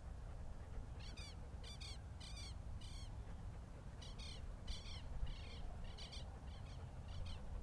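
A bird calling repeatedly: about ten short, high, downward-sliding calls at roughly two a second, starting about a second in with a brief pause midway, over a steady low rumble.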